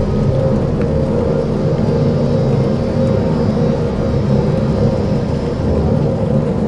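Dark ambient soundscape: a steady, deep drone with several held tones layered over it.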